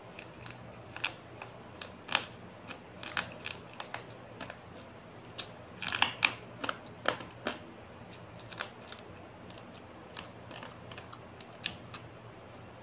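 A person eating rice and fish by hand close to the microphone: irregular sharp clicks and smacks of chewing and handling the food, thickest and loudest about six seconds in.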